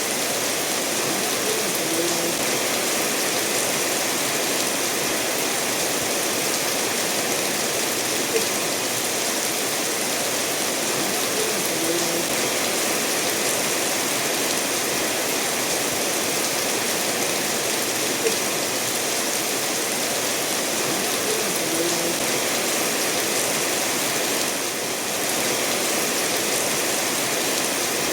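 Steady rainfall mixed with a stream of water running over stones, an even hiss with a few faint short plinks every several seconds.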